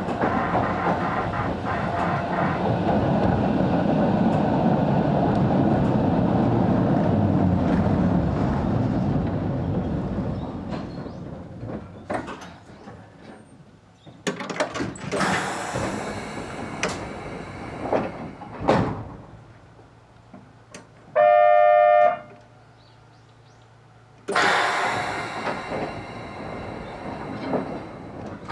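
Sanki Railway Hokusei Line 270-series narrow-gauge (762 mm) electric train running, its noise fading over about ten seconds as it slows to a stop. Then come a few clunks, a one-second buzzer tone, and a burst of air hiss a few seconds before the end.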